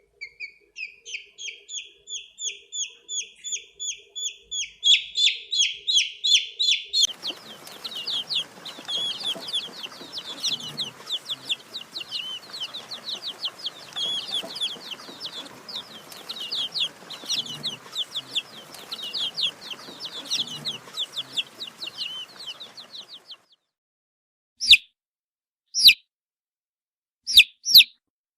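Domestic chicken chicks peeping: a steady run of short, high-pitched, downward-sliding peeps several times a second, growing denser and overlapping with a light background hiss from about seven seconds in. The run stops near the end, and four loud single peeps follow.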